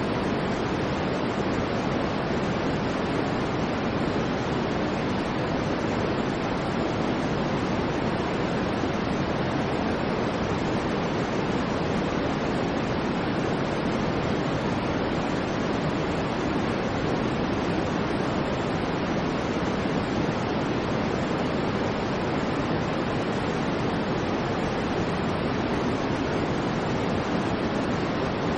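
Steady generated white noise: an even, unchanging rushing hiss, weighted towards the low and middle range rather than sharp and bright.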